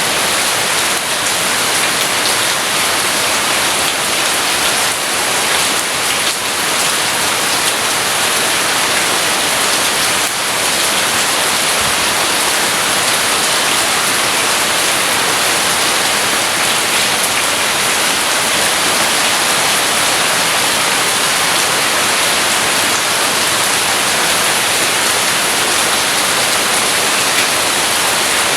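Steady rain falling, an even hiss of drops that keeps the same level throughout, with no thunder.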